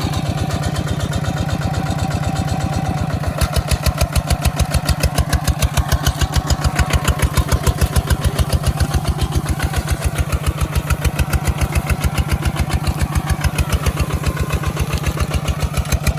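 Kubota ZT155 single-cylinder diesel engine running with a steady, even beat of about five pulses a second. It gets louder about three and a half seconds in.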